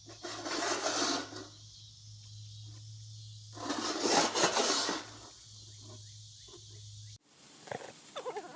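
A dog making two loud, rough growl-like vocalisations about three seconds apart, over a steady low hum.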